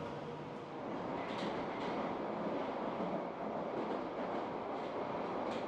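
Moscow metro train of the new Moscow-2024 model running along the line, a steady noise of the ride heard inside the car, with a few faint clicks.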